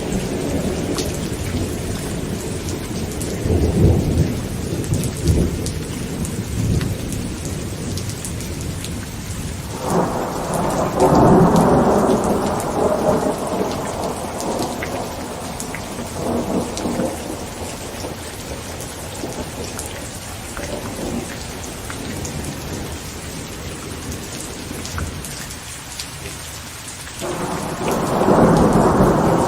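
Heavy rain pattering on a tent, with peals of thunder rolling over it: a low rumble about four seconds in, a louder crack and long roll starting about ten seconds in, and another peal breaking near the end.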